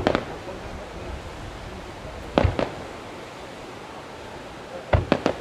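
Aerial firework shells bursting with sharp bangs: one at the start, a pair about two and a half seconds in, and a quick run of three near the end, over a steady background hiss.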